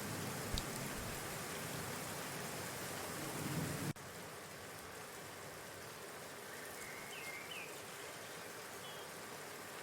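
Steady outdoor hiss with a low rumble, cutting abruptly to a quieter hiss about four seconds in. A few faint short bird chirps come near the end.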